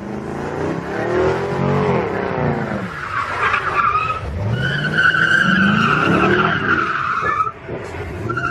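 A car engine revving hard, its pitch rising and falling through gear changes, then tyres squealing in a long skid lasting about three seconds. The squeal cuts off, and a second squeal begins near the end.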